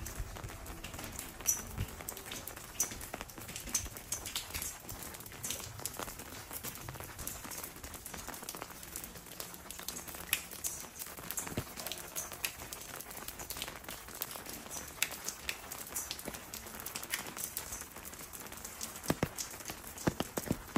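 Rain pattering and dripping on stone paving, with many scattered sharp drops.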